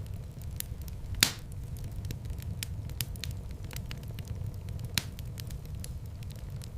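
Wood fire crackling in a fireplace: a steady low rumble of flames with frequent small pops, and two louder snaps, one about a second in and one about five seconds in.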